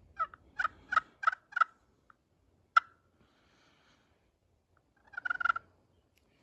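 Wild turkey sounds: a run of five evenly spaced yelp-like notes, a single sharp note about a second later, then a short rapid rattle like a gobble near the end.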